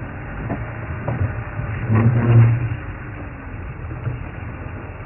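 A safari vehicle's engine idling with a steady low hum. About two seconds in, a louder low hum swells briefly.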